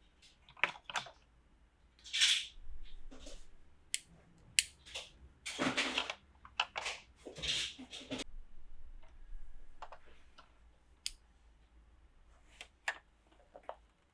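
Small plastic toy pieces and their packaging being handled at close range: scattered clicks and taps, with a few short rustling scrapes about two, six and seven and a half seconds in.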